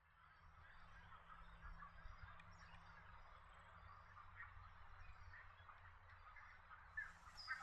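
Faint chorus of many short, overlapping bird calls chirping continuously over a low steady background hum.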